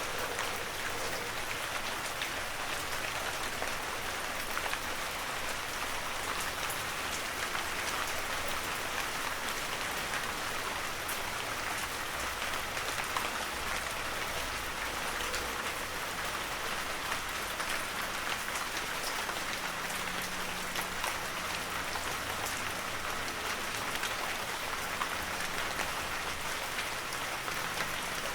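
Heavy rain falling steadily, a dense hiss with many small drop ticks.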